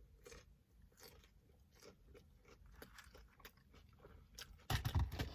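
A person chewing crunchy fried fast food close to the microphone: soft crunches and wet mouth clicks, with a louder crunch about five seconds in.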